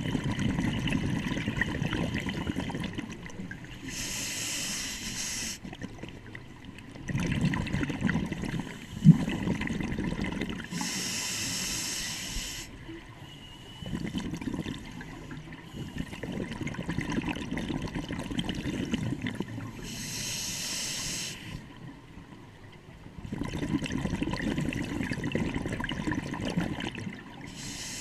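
Scuba diver breathing through a regulator underwater: a short hiss on each inhalation alternating with a longer low bubbling rumble of exhaled air, about four breaths in all. A single sharp knock comes about nine seconds in.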